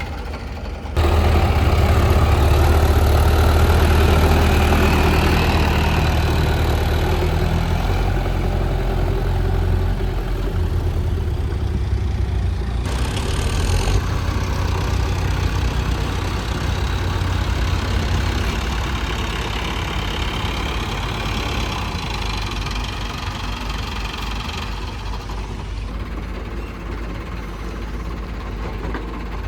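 Heavy diesel machinery engines running steadily at a working pitch, with a deep low drone. The sound jumps abruptly louder about a second in and shifts in tone around the middle and again near the end.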